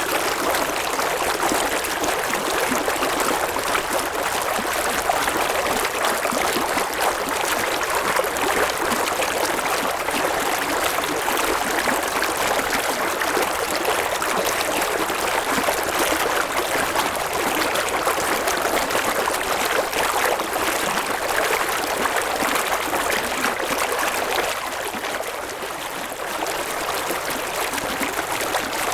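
River water flowing, a steady rushing and babbling with little low rumble, easing slightly near the end.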